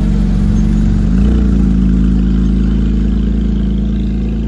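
Porsche sports car engine running loud, its pitch rising about a second in, then holding steady and easing off slightly near the end.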